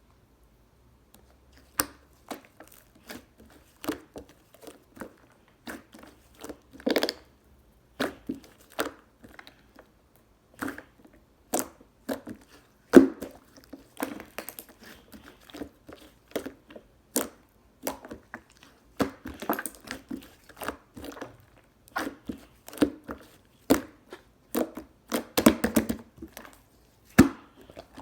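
Soft pudding-textured slime being squeezed and pressed by hand, making irregular sticky pops and squelches, about one or two a second, with quicker runs of squishing near the middle and towards the end.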